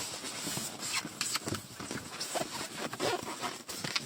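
Irregular knocks, scrapes and rustles of a cardboard parcel with a foam box inside being handled and shifted.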